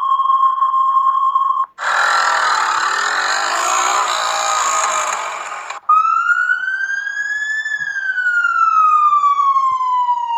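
A run of short vehicle sound effects, cutting from one to the next: first a steady high beep, then about four seconds of a loud noisy sound, then an emergency-vehicle siren wailing, rising slowly and then falling.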